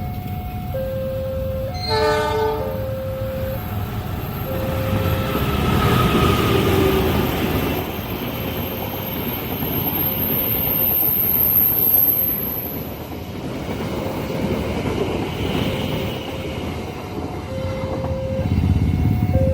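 A train passing a level crossing: a short horn blast about two seconds in, then the rumble and wheel noise of the passing train, with a high whine about halfway through. The crossing's warning signal keeps sounding its alternating two-pitch tone throughout.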